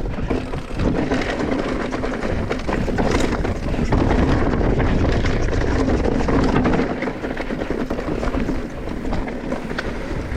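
Mountain bike descending a rocky trail: steady tyre rumble over rock and gravel with scattered knocks and rattles, and wind buffeting the microphone.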